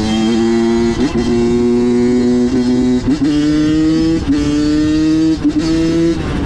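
Honda CR85's single-cylinder two-stroke engine running at a steady pitch while the bike is ridden, dipping briefly about five times as the throttle is rolled off and back on, the pitch settling at a new level after some of the dips.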